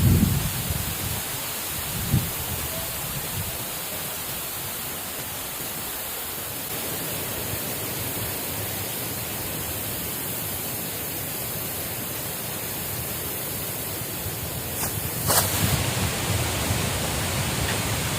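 Steady hiss of falling or running water, with a few low thumps near the start and a brief sharper sound about fifteen seconds in.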